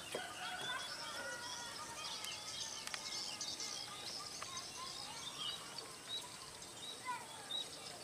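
Small birds chirping and twittering, many short high calls overlapping one another, over faint outdoor background noise.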